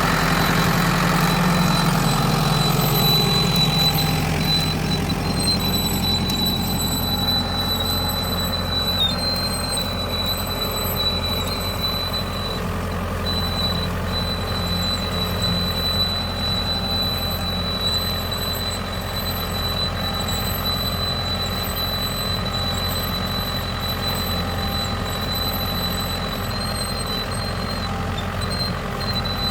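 Ford 6600 tractor's three-cylinder diesel engine running steadily while plowing, a little louder in the first few seconds. A steady high-pitched whine sounds over it.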